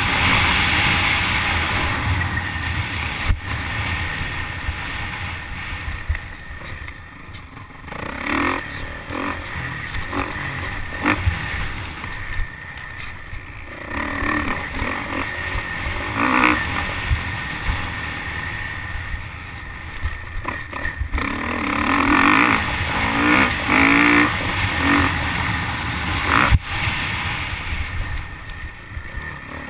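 Motocross dirt bike engine revving up and backing off again and again as the bike is ridden round the track, heard from a helmet-mounted camera, with a few sharp knocks.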